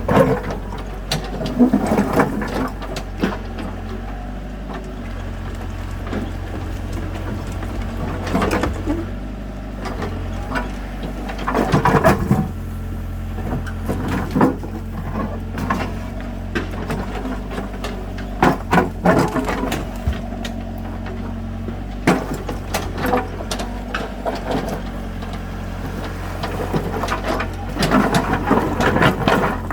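A tractor's diesel engine runs steadily underneath irregular knocks and clatter of stones being loaded onto it, in clusters every few seconds.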